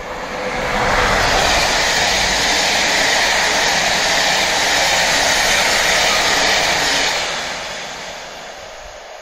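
Passenger train's coaches passing close by: a loud, steady rush of wheels on rail and moving air that builds over the first second, holds, and fades from about seven seconds in.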